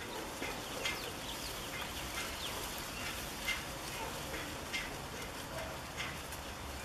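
Birds chirping in short scattered calls over faint outdoor background noise.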